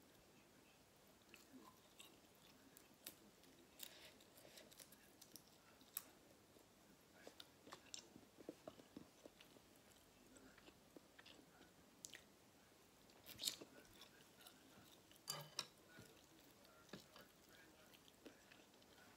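Quiet, close-up chewing and eating of noodle soup, with scattered small wet mouth clicks and a few louder clicks about two-thirds of the way through.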